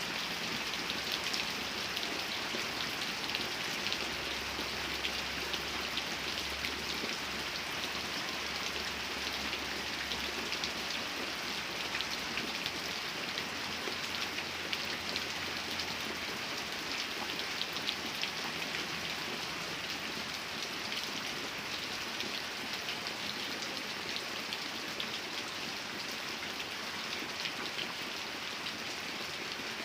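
Steady rain falling, with many fine drop ticks on a hard surface and a faint low hum in places.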